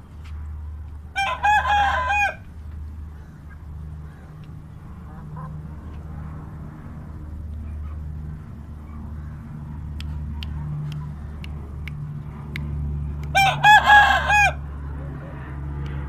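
Aseel rooster crowing twice, each crow a short call of about a second, once near the start and again near the end, over a steady low hum.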